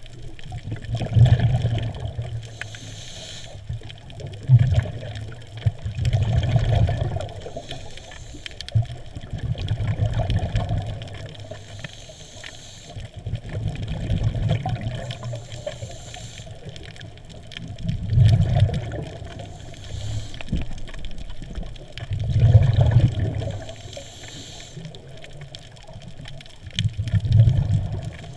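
Water sloshing and bubbling, a low rumble that swells and fades every few seconds.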